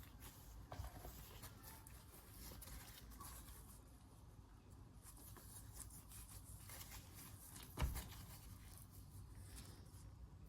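Faint scattered handling clicks and rustle from working on engine parts by hand, with one sharp knock about eight seconds in.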